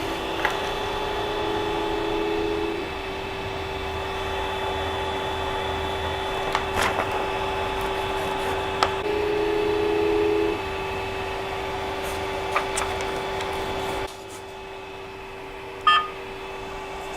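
Creality CR-10S Pro 3D printer's stepper motors moving the print head and bed during bed leveling: a steady whine over fan noise, with a second, lower tone joining twice and a few light clicks. The motors stop about fourteen seconds in, leaving the fans, and a short beep follows.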